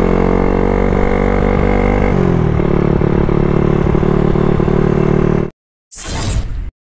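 Yamaha Sniper 135's single-cylinder four-stroke engine running hard at speed, heard onboard with wind, its note dropping in pitch about two seconds in and then holding steady. The sound cuts off abruptly near the end, followed by a brief whoosh transition effect.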